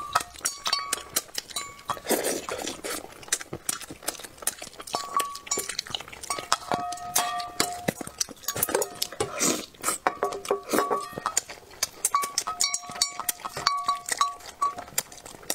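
Close-miked chewing of bullfrog in chili sauce: dense, irregular wet mouth clicks and smacks, with light clinks of wooden chopsticks on the plate and bowl.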